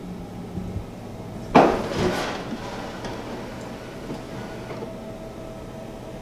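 A sharp clatter about one and a half seconds in, ringing briefly, then a smaller knock half a second later, over a low steady hum.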